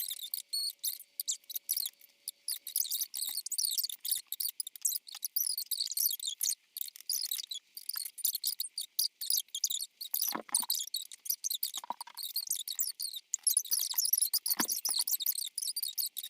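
Small plastic toy pieces clicking and rattling as they are handled and sorted, a rapid irregular stream of light clicks, with a few heavier knocks in the second half.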